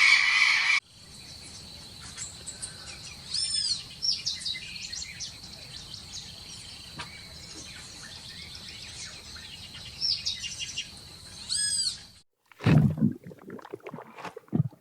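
Wild birds calling, with repeated short arching chirps and a few trills over a steady high-pitched hum. A loud, noisy sound cuts off just under a second in, and near the end loud, low, abrupt sounds break in.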